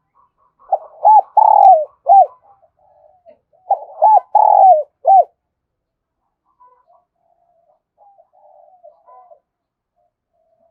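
Spotted dove cooing: two loud coo phrases a couple of seconds apart, each a few short arched notes around one longer note, then fainter cooing for a few seconds.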